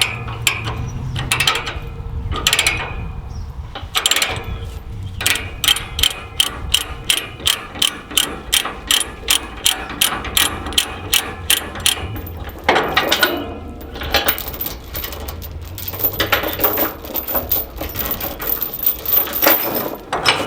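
A ratchet being worked: a long run of even, sharp clicks, about three or four a second, then stops, followed by rougher metallic rattling.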